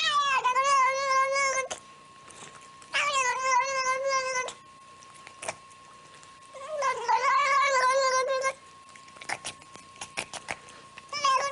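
A cat yowling in long, drawn-out wails: three calls, each a second and a half to two seconds long, and a fourth beginning near the end. The cat protests while being handled, with the handler saying "I'm not hurting you".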